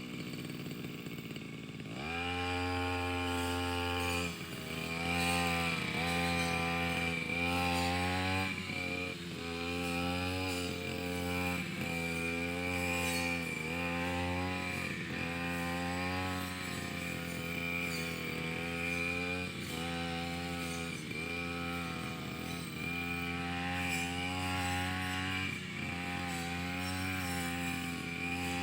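Brush cutter engine running. It picks up to high revs about two seconds in, then its note sags briefly and recovers every second or two as the blade bites into the grass.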